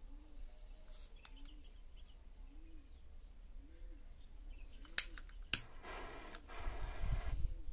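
Two sharp cracks about half a second apart, then a hissing fizz lasting about two seconds, as a matchstick chain catches and flares. Faint dove cooing and bird chirps run underneath.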